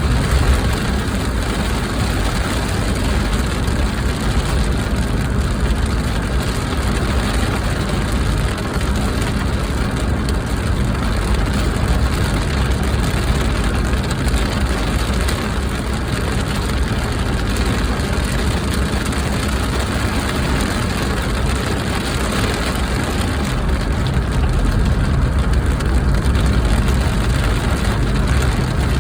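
Steady low rumble of a car on the move, heard from inside: engine and road noise running evenly throughout.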